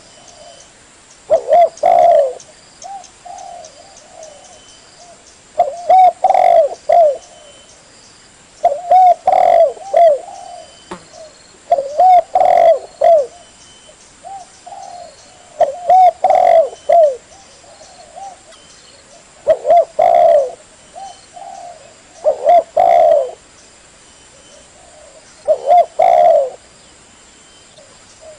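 Spotted dove (tekukur) cooing: a short phrase of a few coo notes, repeated about every three to four seconds, eight times over.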